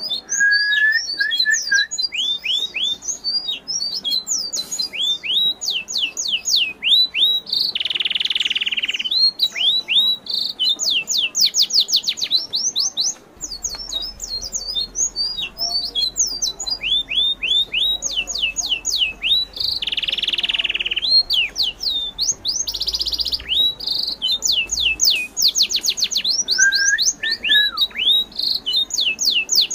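Birds singing: quick series of sharp, sweeping chirps repeated over and over, with a short buzzy note twice, about eight and twenty seconds in.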